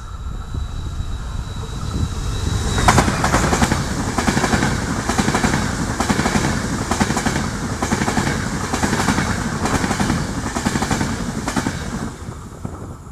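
Electric passenger train passing at speed close by: a rising rumble with a thin high tone, a sharp clack about three seconds in, then a run of regular wheel clacks over the rail joints as the coaches go by, falling away near the end.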